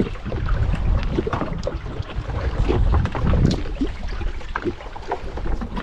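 A low, steady rumble with scattered knocks and splashy clicks aboard a small fishing boat on the water.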